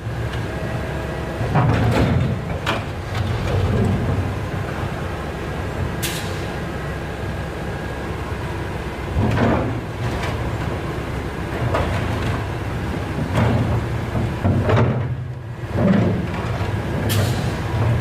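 Heavy machinery running with a steady low rumble. Knocks and clanks come every few seconds, with a couple of short hisses.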